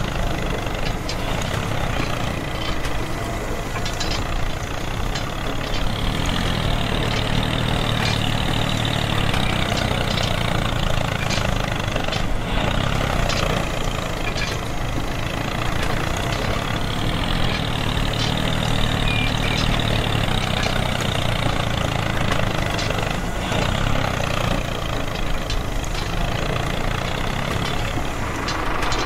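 Tractor engine running steadily at an even pace, with faint scattered clicks.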